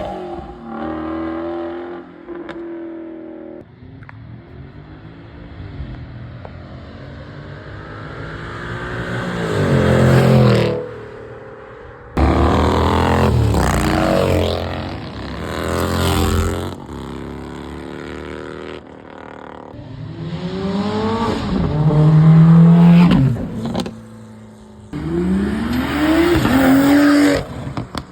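A series of high-performance car engines revving hard and accelerating away one after another, the engine note rising sharply and then dropping between gears. The loudness swells and fades as each car passes, and the sound cuts off abruptly several times between passes.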